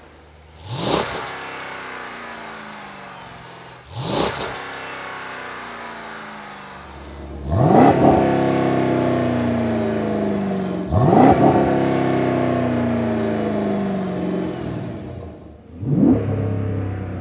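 Jeep Grand Cherokee 6.4-litre Hemi V8 through a Flowmaster American Thunder stainless cat-back exhaust with Super 44 mufflers, revved from idle. Two quick blips, then two longer revs whose pitch falls slowly back to idle, and a last quick blip near the end.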